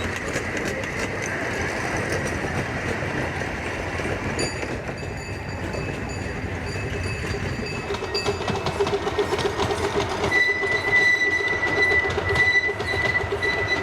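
A 15-inch gauge miniature train rolling along the track, its wheels clicking quickly over the rail joints. A thin high wheel squeal comes in about four seconds in and grows to a strong steady squeal for the last few seconds.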